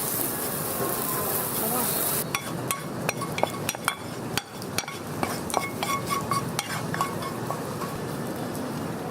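Food sizzling in a wok, then about two seconds in a metal utensil starts clinking and scraping against the wok many times as the food is stir-fried, with sizzling underneath.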